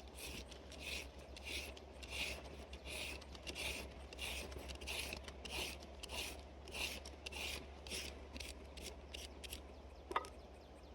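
A regular series of rasping scrape strokes, about one and a half a second, with a single sharp knock near the end.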